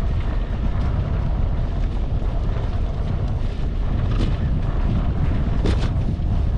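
Wind rushing over the microphone of a moving bicycle, a steady low rumble, with a couple of brief clicks or rattles in the second half.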